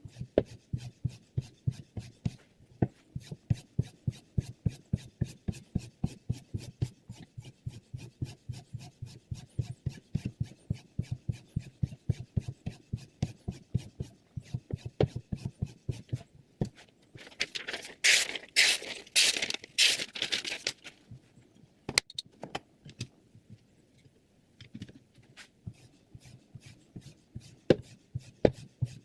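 Sharpening stone on a guided knife sharpener stroking back and forth along a chef knife's edge in quick, even strokes, about three or four a second. A little past the middle the strokes grow louder and hissier for a few seconds.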